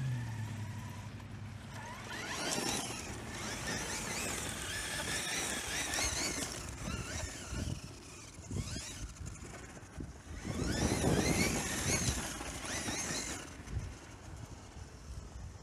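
Team Associated Rival 1/8-scale electric monster truck driving. Its Teken Redline T8 brushless motor whines up and down in pitch with the throttle over a noisy rumble, loudest in a burst about eleven seconds in.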